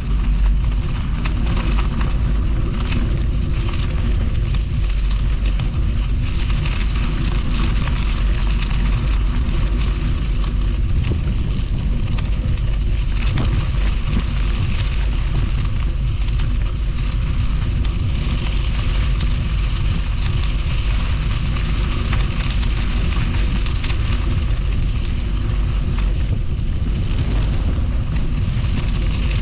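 Steady wind rumble buffeting the microphone of a camera carried on a moving bicycle.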